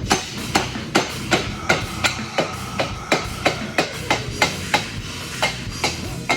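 Hand hammer striking half-inch square steel bar in steady, even blows, about three a second.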